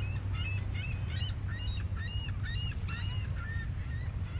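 Many short, quick bird calls chirping over a steady low rumble of ocean surf.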